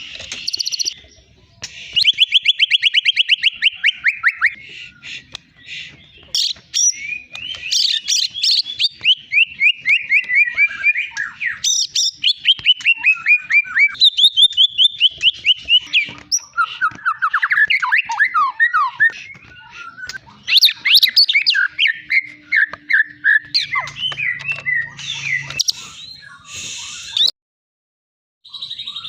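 White-rumped shama (murai batu Medan) singing a long, varied song: rapid trills and fast runs of descending whistled notes, phrase after phrase. The sound cuts out for a moment near the end.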